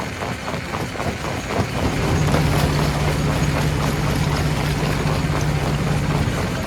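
Stone crusher running, with a fast, even clatter of about five knocks a second. A steady low drone joins about two seconds in and stops shortly before the end.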